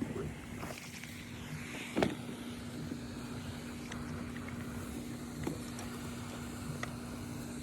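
A steady mechanical hum over a low rumble, with a sharp knock about two seconds in and a few faint clicks.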